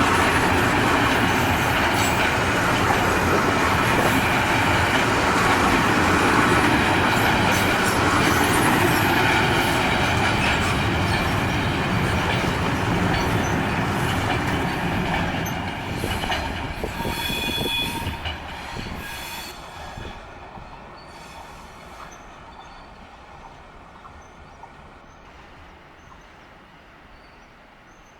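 A train passing through a station on the through track: loud rumble and wheel noise for about fifteen seconds, a brief high squeal of wheels as the last cars go by, then the sound fades away as the train recedes.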